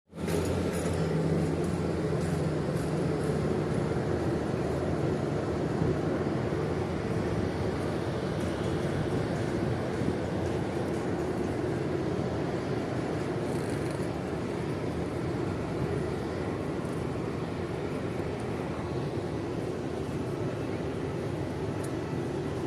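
Airliner engines and airflow heard from inside the passenger cabin during takeoff and climb: a steady, loud roar with a low rumble, easing slightly in the second half.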